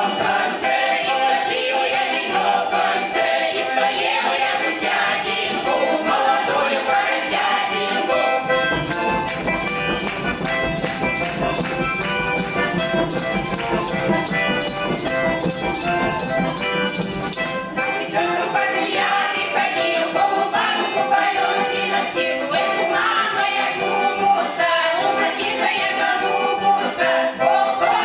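Folk song ensemble singing with instrumental accompaniment. About a third of the way in, the singing gives way to a stretch of quick, even percussive beats with a fuller bass lasting several seconds, before the voices return.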